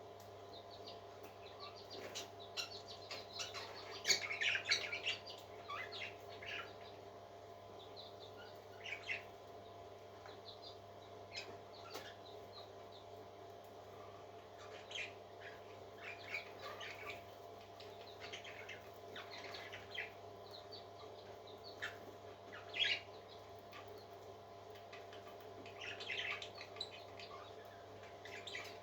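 Baby parrots peeping in short, scattered high chirps, busiest in a few clusters, over a steady low hum.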